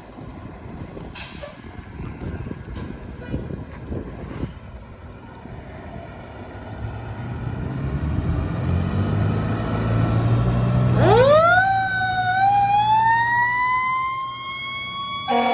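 Fire truck passing: its diesel engine grows louder, then about two-thirds of the way in a siren winds up with a sharp rise and keeps slowly climbing in pitch. A horn blast starts near the end.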